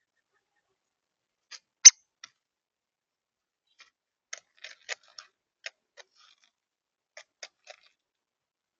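Woodpecker pecking at wood: irregular single sharp taps, not a drumming roll. The loudest tap comes about two seconds in, and small clusters of taps follow later.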